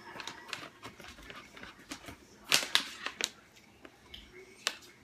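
Crunchy pretzel snacks being chewed: a scatter of sharp crunches, loudest and closest together about halfway through.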